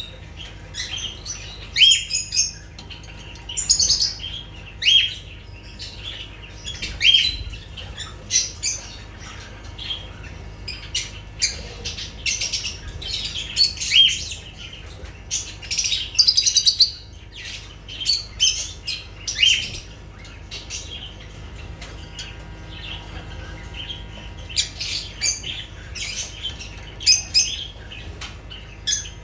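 Lovebirds chirping and squawking: a run of short, sharp, high-pitched calls coming irregularly throughout, over a low steady hum.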